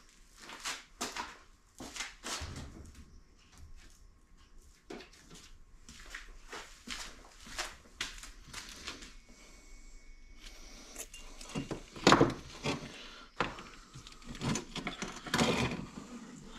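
Hand tools and metal parts clicking, knocking and rattling in an irregular run as the engine's parts are worked on at the bench, with the loudest knocks about twelve seconds in and again near the end.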